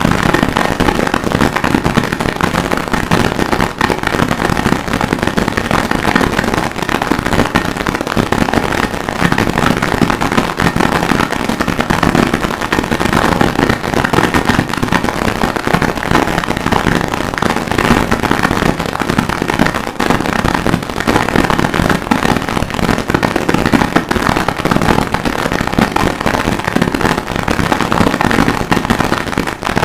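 Harsh noise music: a loud, unbroken wall of dense crackling distortion with no rhythm or pitch, built from sampled and processed recordings of a blacksmith's forge.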